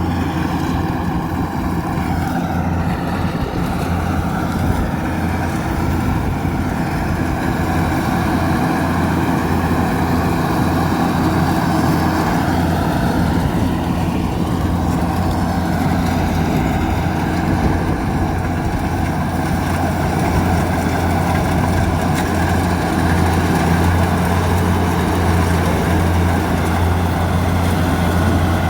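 Kubota DC70 combine harvester's diesel engine running steadily at working speed, with a couple of slight dips in pitch as the load changes.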